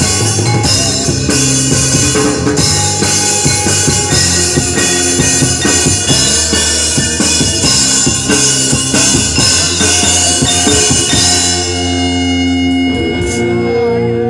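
Live band playing the instrumental ending of an ethnic-style arrangement of a pop song: steady, busy drumming with guitar and other instruments. About twelve seconds in, the drumming stops and a final held chord rings out.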